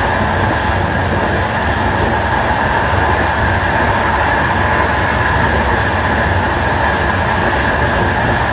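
Running noise of a passenger express train heard from its last carriage: a steady rumble of wheels on rail with a constant hum, and no separate rail-joint clicks.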